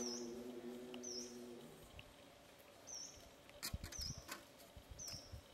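A bird's short high chirp, dipping and rising in pitch, repeated about once a second. Under it, a low drawn-out call carries on through the first two seconds. A few soft taps and knocks come after the middle.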